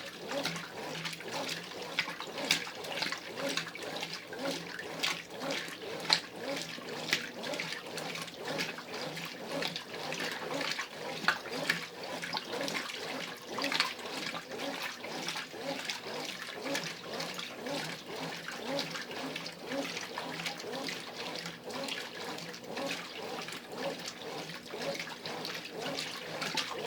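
Brastemp Ative 11 kg top-load washing machine in its wash stage, agitating the load so that the water sloshes and splashes steadily.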